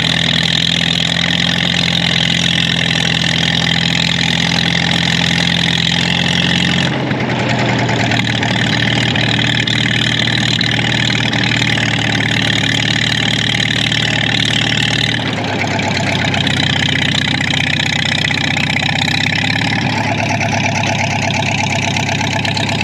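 Arctic Cat Jag 340 snowmobile's two-stroke engine running steadily. Its pitch drops a step about seven seconds in and again around fifteen seconds in.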